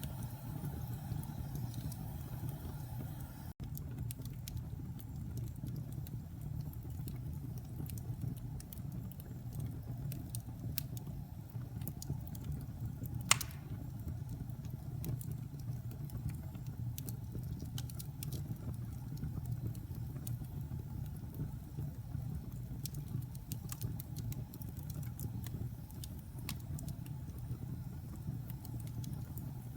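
Fire in a fireplace crackling with scattered small pops over a steady low rumble, and one louder, sharp pop about thirteen seconds in.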